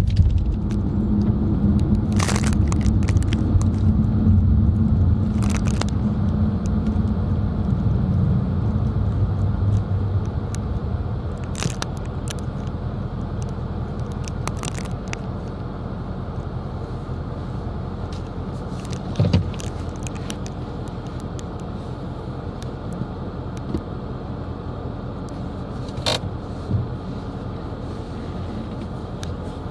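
Inside a moving car: steady engine and road rumble that fades noticeably after about ten seconds, with a few sharp clicks and knocks from the cabin scattered throughout.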